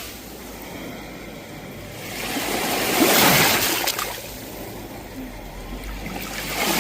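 Sea waves washing onto the shore. One wave swells and breaks loudly about three seconds in, draws back, and the next begins to build near the end.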